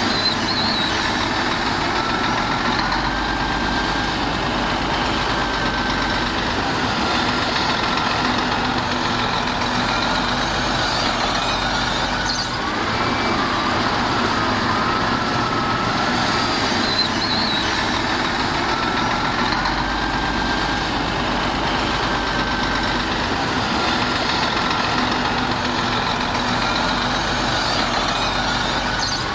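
Heavy diesel earth-moving machinery running steadily, a continuous engine drone with a faint wavering whine over it.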